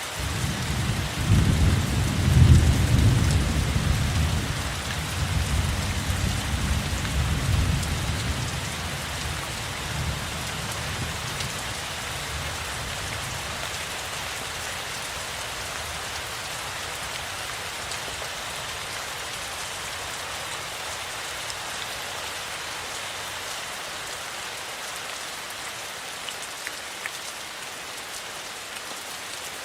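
Steady rainfall with a deep roll of thunder that rumbles in at the start, peaks a couple of seconds in and fades away over about ten seconds, leaving only the even hiss of the rain.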